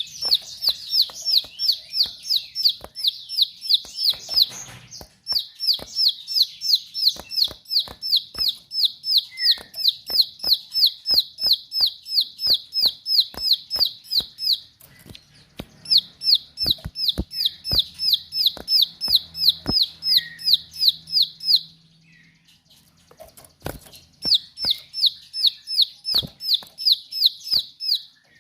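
Plain prinia (ciblek sawah) singing a fast run of repeated sharp notes, about four a second, in long bouts broken by short pauses, with sharp clicks scattered among them.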